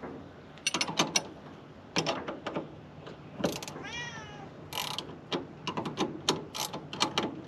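A cat meows once, a single arching call about four seconds in. Short clicks and knocks of handling come before it and after it.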